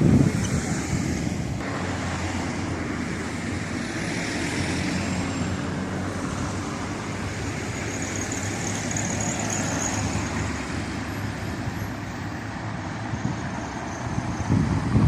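Steady street traffic noise: cars passing with a low running hum.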